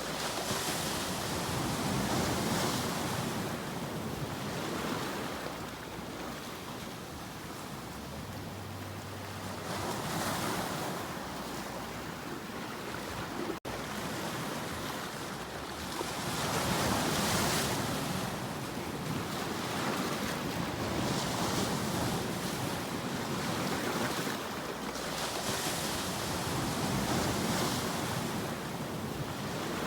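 Sea waves breaking, the surf swelling and fading every few seconds, with a momentary dropout about halfway through.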